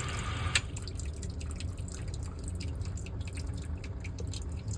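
Sump pit water rushing stops with a click about half a second in, leaving water dripping into the pit over the steady low hum of the sump pump, still running because its float is stuck and not cutting off.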